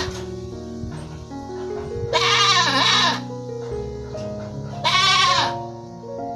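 An animal bleating twice in quavering calls, the first about two seconds in and lasting about a second, the second shorter, over background music with slow held notes.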